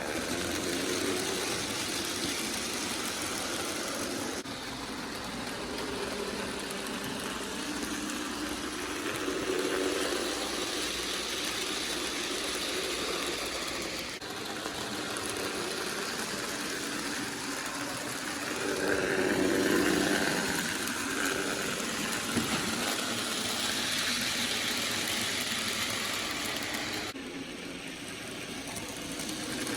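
HO scale Bachmann Thomas model locomotive running on its track pulling tank cars: a steady whirring rumble from its small electric motor and wheels, swelling a little louder about two-thirds of the way through.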